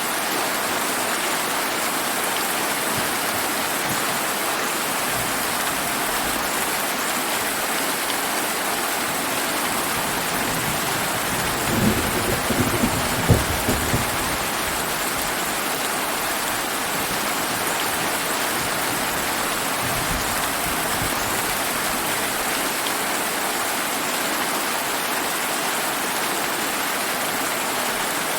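Steady summer rain hissing, with a thunderclap about twelve seconds in: a couple of seconds of sharp crackling strokes, followed by a fainter low rumble some six seconds later.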